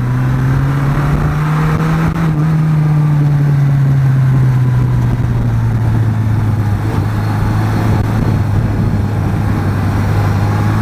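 Yamaha XJ550 Maxim's four-cylinder engine running under way at a steady cruise, its note easing down slightly over the first few seconds and then holding level, with wind rush.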